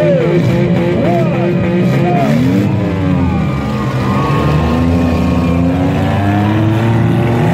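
Several demolition derby car engines revving at once, their pitches rising and falling over one another.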